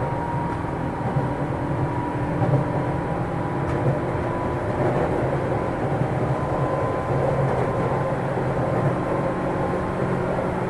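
JR East 205 series electric train running between stations, heard inside a motor car: a steady rumble of wheels on rail under a constant hum from the traction motors, which on this set are the external-fan type.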